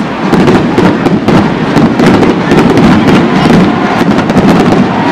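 Aerial fireworks bursting overhead: a dense, continuous run of sharp pops and crackles.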